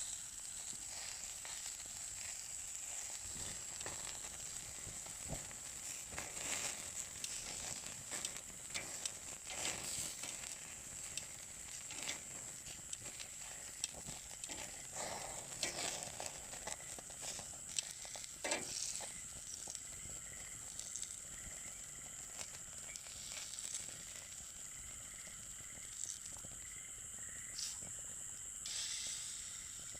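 Meat sizzling on a grill over a wood fire, a steady hiss broken by frequent sharp pops and crackles that thin out over the last third.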